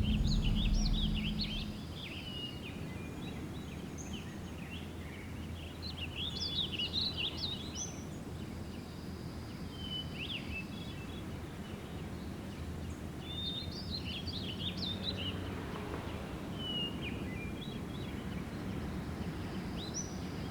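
Birds chirping in scattered short clusters over a steady low background rumble. A louder low rumble fades out in the first two seconds.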